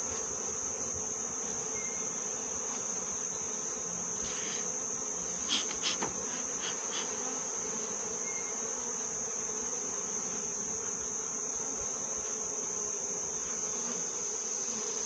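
Honeybees buzzing steadily around an opened hive during a frame inspection, a low even hum. A few light knocks come about five to seven seconds in.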